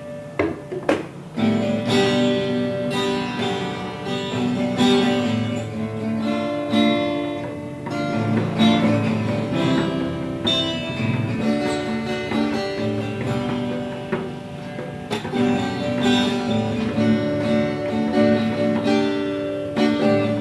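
Acoustic guitar strummed in a steady rhythm, playing a chord accompaniment.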